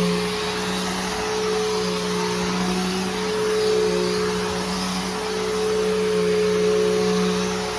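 Bissell Powerforce Helix Turbo upright vacuum cleaner running steadily while vacuuming, its motor holding a constant hum and whine, the loudness rising and falling slightly.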